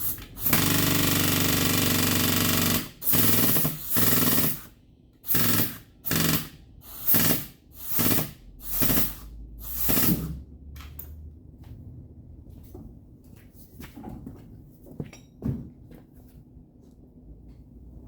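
Electric welder buzzing and crackling as it welds to the truck's sheet-metal quarter panel for pulling out a dent: one weld of about two seconds, a second of nearly two seconds, then about seven short bursts in a row, followed by a few faint clicks.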